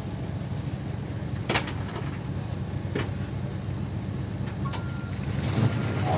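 Heavy diesel engine idling with a steady low rumble, with two sharp clicks about a second and a half and three seconds in.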